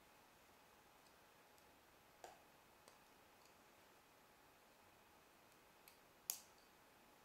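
Plastic Lego pieces being handled and snapped together: a few sparse, light clicks over a quiet background, the sharpest about six seconds in.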